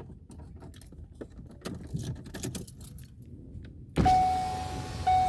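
Faint scattered clicks and taps, then about four seconds in a sudden rush of outside noise and a steady high electronic beep that repeats about once a second.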